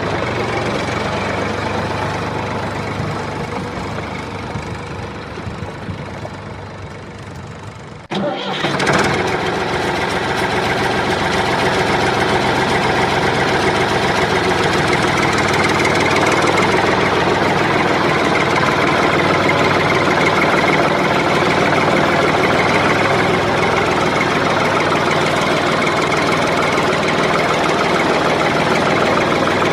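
A vehicle engine running, fading over several seconds, then cut off abruptly about eight seconds in, after which an engine runs louder and steady.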